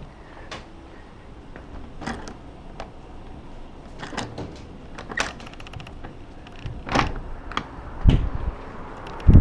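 A scattered series of light clicks and knocks, some with a quick rattle of ticks after them, from things being handled and moved. Near the end, a low rumble of wind on the microphone sets in.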